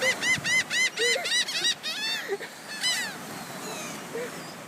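Gulls calling: a fast run of sharp, repeated calls, about five a second, for nearly two seconds, then a shorter run of calls about three seconds in.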